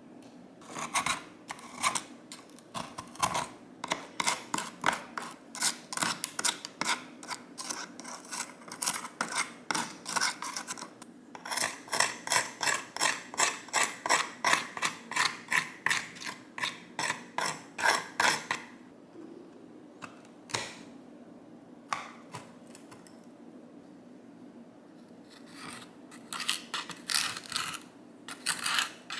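Rapid runs of sharp, crisp snipping clicks, about two to three a second, with a pause of several seconds before they pick up again near the end.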